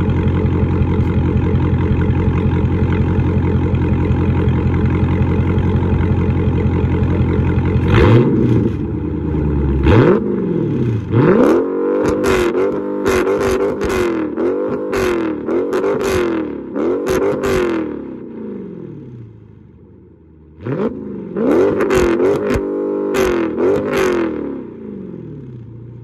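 Tuned Dodge Charger's HEMI V8 idling steadily, then revved hard in repeated blips, the pitch climbing and falling back with each one, in two runs with a short lull about twenty seconds in. The tune lifts the rev limiter so the engine revs to about 6,500 rpm instead of stopping near 4,000.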